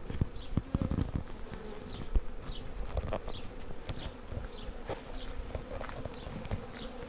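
Honey bees of a swarm buzzing in the air, a steady hum, with scattered low thumps and a faint high chirp that repeats about twice a second.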